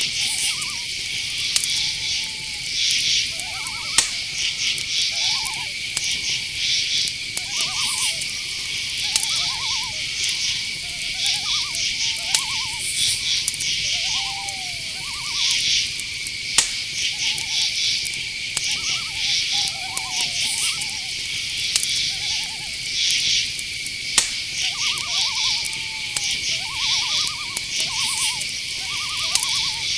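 Night-time insect chorus: crickets trilling steadily, with bursts of higher chirping over it. Through it run many short, quickly pulsed calls, about one a second, a few gliding down in pitch.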